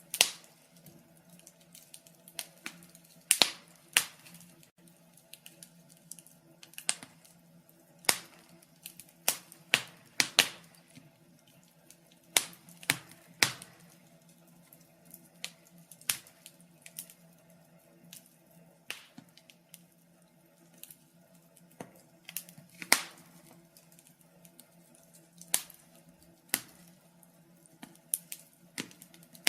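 Fire crackling: irregular sharp snaps and pops, several a second, with a louder pop every second or two, over a faint steady low hum.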